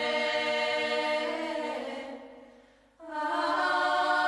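Background choral music: voices holding sustained chords, which fade out about two seconds in and give way to a new chord about three seconds in.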